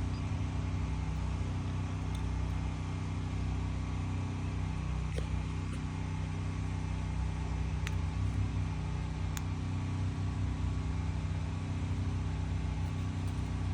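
An engine running steadily with an even low hum, with a few faint clicks over it.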